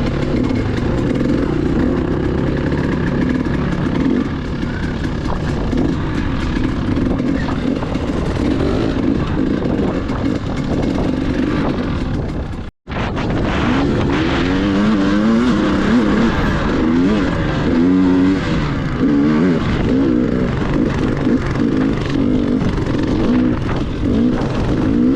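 Dirt bike engine running while riding, its pitch rising and falling with the throttle. The sound cuts out completely for a moment about halfway through.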